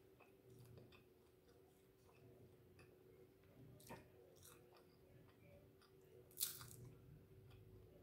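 Faint chewing and biting on a roasted chicken wing, with small scattered mouth clicks and one louder sharp click about six and a half seconds in. A faint steady hum runs underneath.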